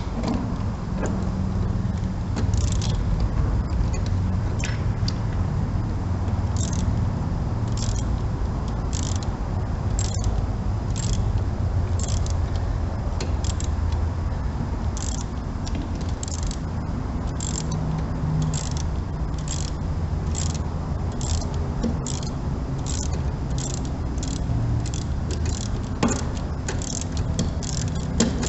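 Hand socket ratchet clicking in repeated short strokes, the strokes coming faster towards the end, as a spark plug is worked loose. A steady low rumble runs underneath.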